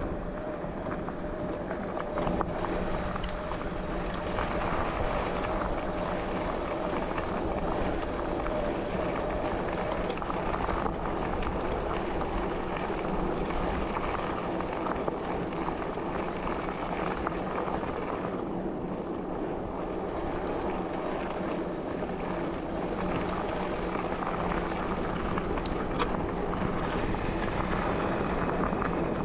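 Riding noise from a bicycle on the move: wind buffeting the microphone over a steady rumble of rolling tyres, with a faint steady tone for about the first ten seconds.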